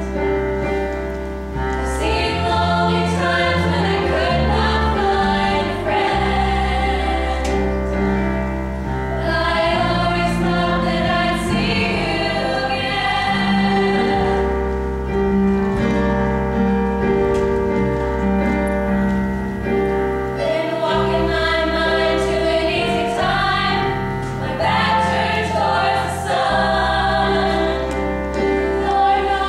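Voices singing together over instrumental accompaniment, with held bass notes that change every couple of seconds.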